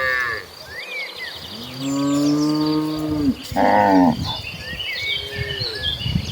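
Cattle mooing: one long low moo about two seconds in, then a shorter, higher and louder call around three and a half seconds. Birds chirp in the background, mostly in the second half.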